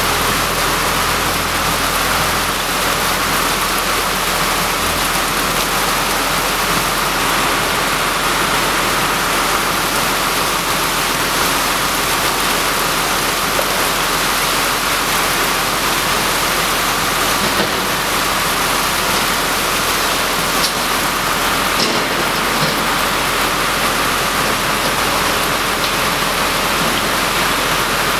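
Steady rush of water pouring out of a live haul truck's hauling tank as catfish fingerlings are flushed out, over a faint low hum.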